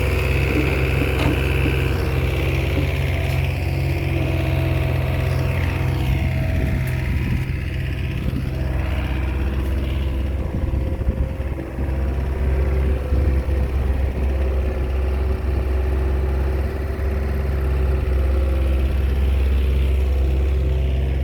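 Crawler bulldozer's diesel engine running steadily, a deep even drone.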